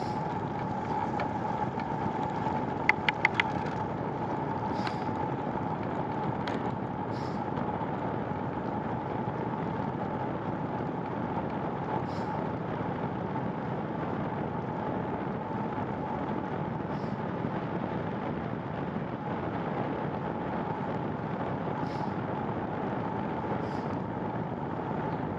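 Steady rolling noise of a bicycle being ridden, tyres on the road and wind on the microphone, with a constant hum. About three seconds in, four quick high chirps.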